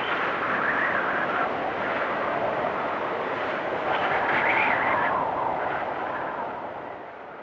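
Blizzard wind blowing in gusts, with a whistling howl that rises and swells about four seconds in, then fading away near the end.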